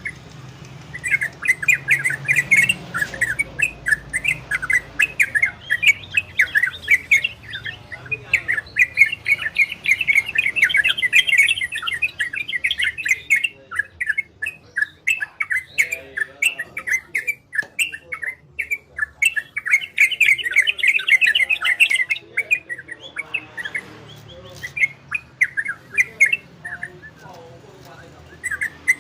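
Yellow-vented bulbul (trucukan) singing its fast chattering 'ropel' song in bouts a few seconds long, with short pauses between them.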